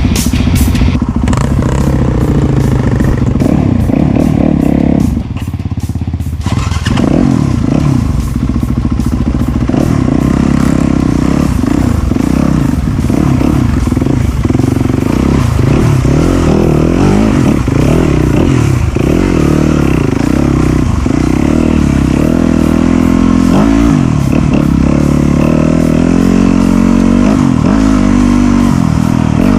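Off-road dirt bike engine revving up and down as it is ridden along a trail, with rattle from the bike over rough ground. The engine eases off briefly about five seconds in, then picks up again.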